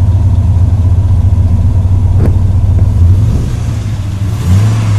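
2002 Dodge Ram 1500 pickup's engine idling steadily just after being started, with a short click about two seconds in. The engine note rises and grows louder about four and a half seconds in.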